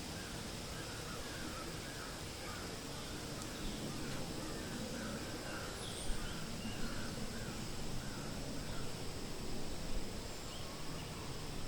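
Forest ambience: a bird gives a quick run of short, harsh calls, about two a second, fading out after six or seven seconds, over a steady wind-like hiss, with a few faint higher chirps from other birds.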